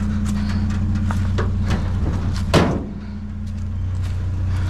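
Vehicle engine idling steadily under scattered clicks and knocks, with a door slamming shut about two and a half seconds in.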